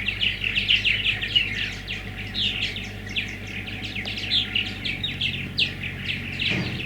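Songbirds chirping busily in a steady stream of short, quick notes, with a faint low steady hum underneath.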